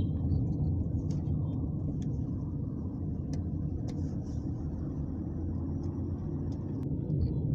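Car driving on the road: a steady low rumble of engine and tyre noise, heard from inside the cabin.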